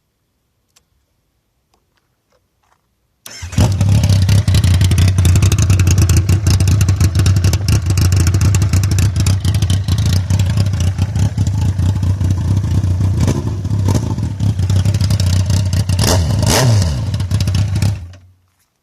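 Kawasaki ZX-9R inline-four motorcycle engine on a straight pipe with no muffler: it starts suddenly about three seconds in, idles loudly and raw, is blipped once briefly near the end, then is switched off.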